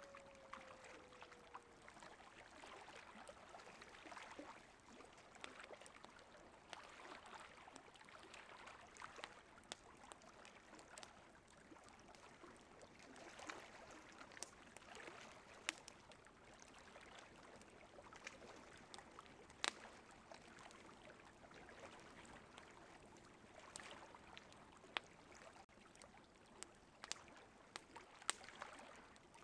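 Wood fire crackling, with sharp pops at irregular intervals over a faint steady rush of river water. A coyote's falling howl trails off in the first two seconds.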